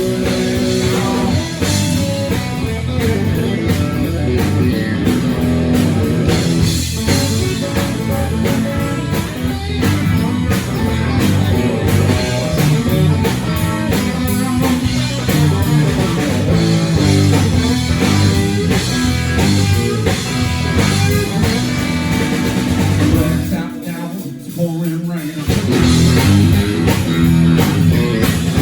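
Live blues-rock band playing an instrumental passage with electric guitar and drum kit. About 24 seconds in, the bass and drums drop out for a couple of seconds, then the full band comes back in.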